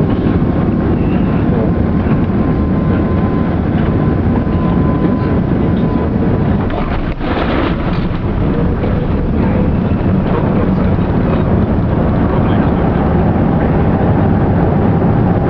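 Steady, loud cabin noise inside an Airbus A380-861: the engines and the air rushing past the fuselage, with a faint thin whistle over the first few seconds.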